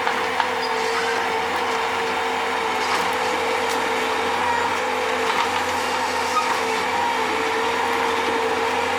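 Bobcat skid-steer loader running steadily while digging, its engine drone carrying a held, slightly wavering tone.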